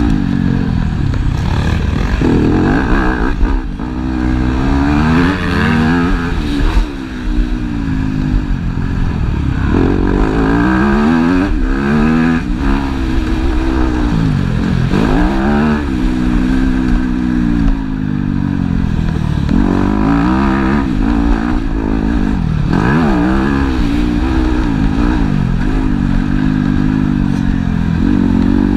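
Several motocross bikes racing, their engines revving up and falling back again and again as they accelerate and shift gears, with more than one engine heard at once.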